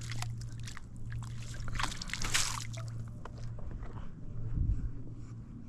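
Water splashing and dripping in short bursts, with a louder splash about two seconds in, as a small landed rainbow trout is handled at the water's edge. A steady low hum runs underneath, and a dull thump comes near the end.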